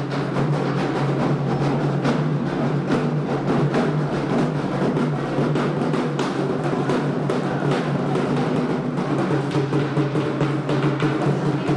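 Candomblé ritual drumming: atabaque hand drums playing a fast, dense, continuous rhythm with sharp, closely spaced strokes over a steady low ring.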